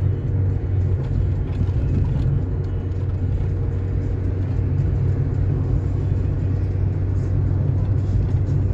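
A car driving at a steady speed on asphalt: a steady low rumble of engine and tyres on the road.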